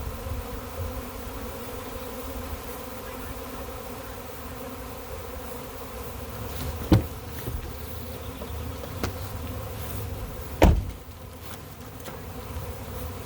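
A honey bee swarm buzzing steadily, a thick hum of many bees around the beekeeper. Two sharp knocks cut through it, one about seven seconds in and a louder one near the end.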